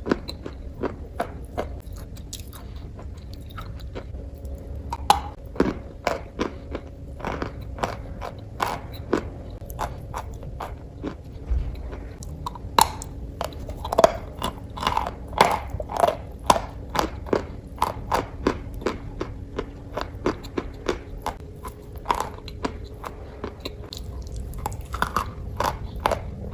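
Close-miked crunching: many short, crisp, irregular crunches and clicks in quick succession, thickest in the middle.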